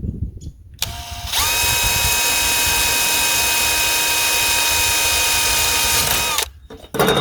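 Electric drill running at a steady speed for about five seconds, boring a hole for the feeder's drop funnel, after a brief trigger blip. The motor stops near the end, and a sharp knock follows.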